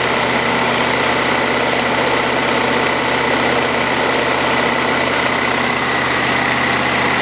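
Chevrolet Camaro's 305 H.O. V8 idling steadily while warming up after a cold start, with a thin steady high tone over the engine noise.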